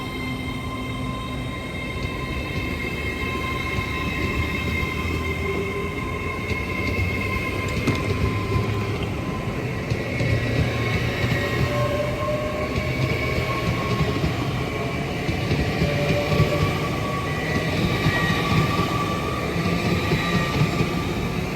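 LNER Azuma Class 801 electric train moving through the station: a low rumble with a steady whine of several high tones whose pitch drifts slightly, growing a little louder in the second half.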